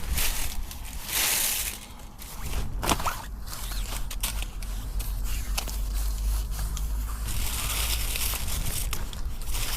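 Rustling and crunching handling noises, with irregular crackles and a louder burst about a second in and again about three seconds in, over a steady low rumble.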